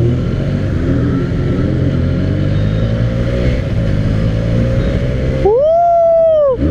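Benelli 600i inline-four motorcycle with a modified Ixil exhaust running at low revs. About five and a half seconds in the throttle is blipped hard: the engine note climbs sharply, holds for about a second, then falls back.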